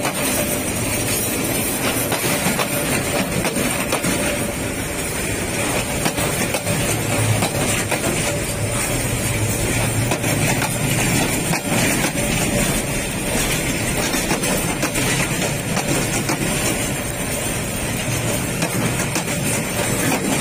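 Container freight wagons rolling past close by: a steady rumble of wheels on the rails.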